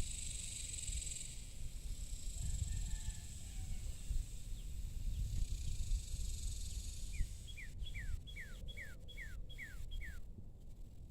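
Evening outdoor ambience. A high, steady insect trill in the first second, then from about seven seconds in a bird gives a quick series of about eight short falling whistles, roughly three a second, over a low rumble.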